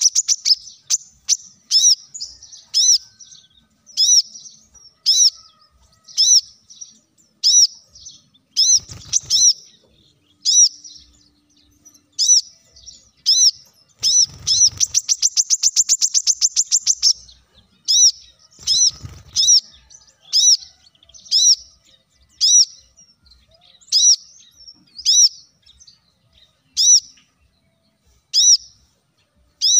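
Brown-throated sunbird (kolibri kelapa) singing: sharp, high chirps repeated about once a second, with a fast rattling trill lasting about three seconds midway.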